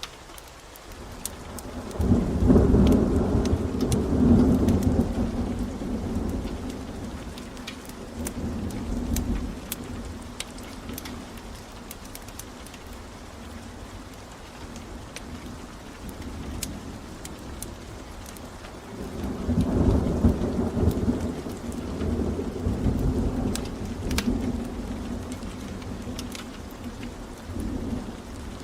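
Steady rain with two long, low rolls of thunder, the first starting about two seconds in and the second about twenty seconds in. Sharp crackles from a wood fire pop through the rain.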